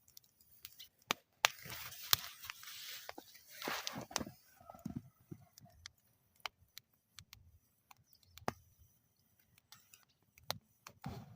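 Wood fire crackling in a metal fire bowl: scattered sharp pops and snaps, with a stretch of hissing about one and a half to four seconds in.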